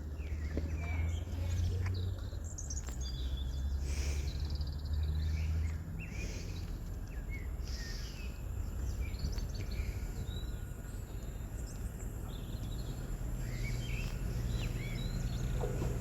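Small birds chirping and twittering over a steady low background rumble. The rumble eases about six seconds in and grows again near the end.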